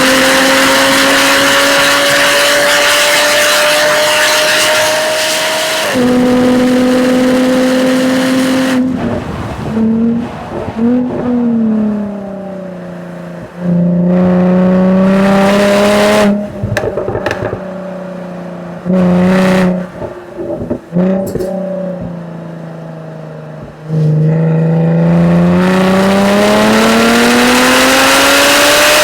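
Exhaust of a 2013 Jaguar F-Type V6 S's supercharged 3.0-litre V6 at full throttle: the pitch climbs, then drops at an upshift about six seconds in. The throttle then closes for braking, with short blips on the downshifts and sharp pops and crackles on the overrun. From about five seconds before the end the engine pulls hard again, its pitch rising steadily.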